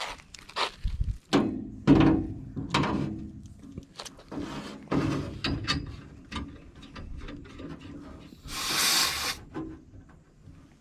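Clicks, knocks and rubbing of hand tools and metal parts being handled at a package air-conditioning unit. A short, loud hiss of under a second about eight and a half seconds in, refrigerant escaping as a manifold gauge hose is coupled to the unit's service port.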